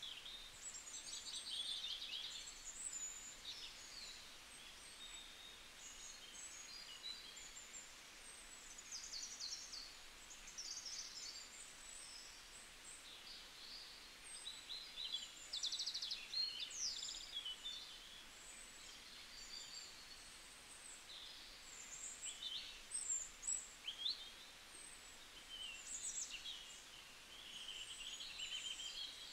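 Songbirds chirping and twittering: many short, high calls and trills overlapping throughout, over a soft steady hiss.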